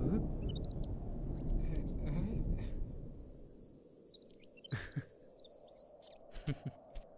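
Cartoon soundtrack of birds chirping and tweeting in short, gliding calls. A low rumble fades over the first few seconds, and a few short knocks come in the second half.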